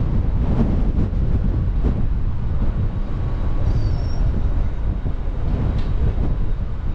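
Steady low rumble of wind on the microphone aboard a moving cruise ship, with a faint high chirp about halfway through.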